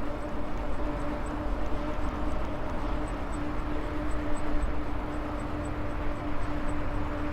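Maxtron Mule folding e-bike under way: a steady whine from the electric motor over rushing wind and road noise, with a faint high tick about four times a second.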